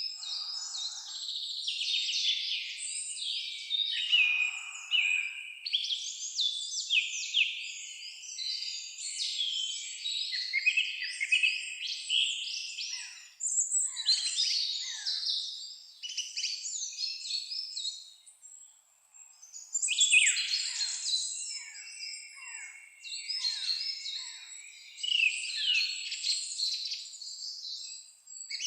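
A chorus of several songbirds singing at once, with fast overlapping chirps, trills and whistled phrases, and a short lull about two-thirds of the way through.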